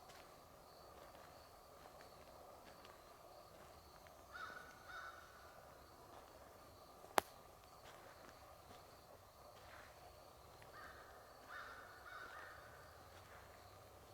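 A bird calling faintly in short calls, two about four seconds in and three more near the end, with one sharp snap midway.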